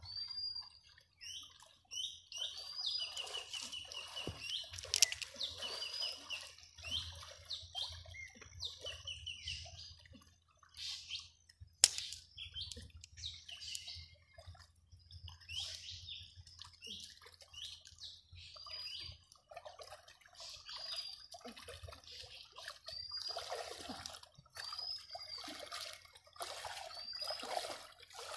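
Birds calling over and over, short high arching notes about every second, at times with a quick twittering run, over irregular splashing of water around a person wading. Two sharp clicks stand out, one about five seconds in and one near the middle.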